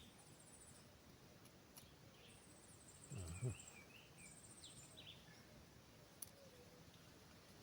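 Quiet outdoor ambience: small birds chirping faintly and an insect trilling in short, high, pulsing bursts, with a soft low thump about three seconds in and a single click near the end.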